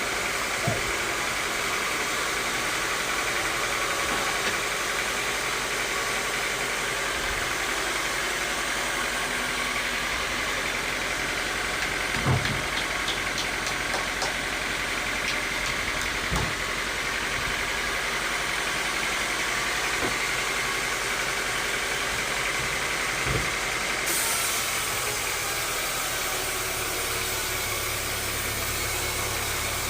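Sawmill machinery running steadily with a constant whine, broken by a few dull knocks. The sound changes about 24 seconds in.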